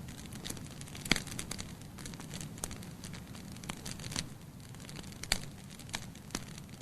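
Wood fire burning in a fireplace: a low steady hiss of flames with irregular sharp crackles and pops from the burning logs, the loudest pops about a second in and about five seconds in.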